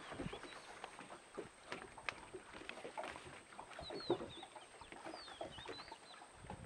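Birds calling from the mangroves: short, high, whistled chirps, a cluster about four seconds in and more just after five, over scattered faint clicks and knocks.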